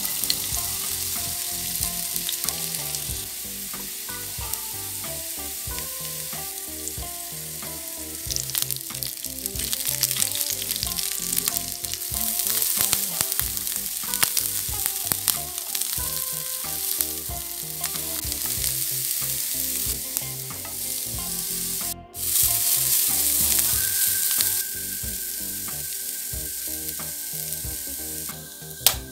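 Sliced onions, green chillies and garlic sizzling in hot oil in a non-stick frying pan, with a steady crackling hiss. The sizzle breaks off briefly about three-quarters of the way through, then comes back louder.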